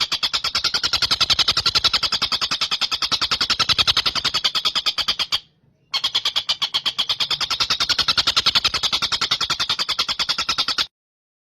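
Tengkek buto, a kingfisher, calling in a fast, even, high-pitched rattling trill. The trill stops for about half a second midway, starts again, and cuts off just before the end.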